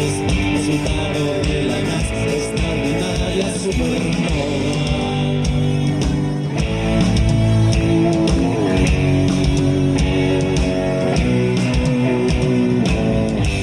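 Live pop-rock band playing an instrumental passage, with guitar and a steady drum beat.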